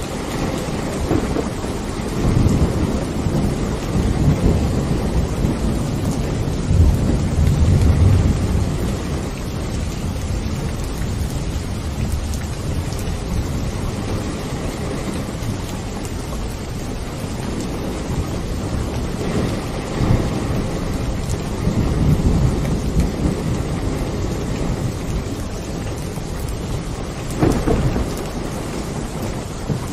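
Steady rain with rolling thunder: deep rumbles swell several times, the biggest about seven to nine seconds in and again around twenty seconds.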